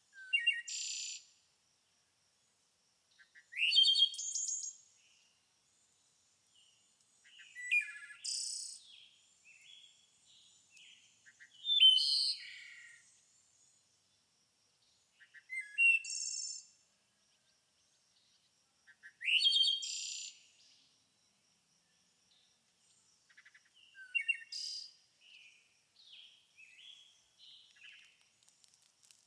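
A songbird singing a short, high phrase about every four seconds, with a few quieter chirps near the end.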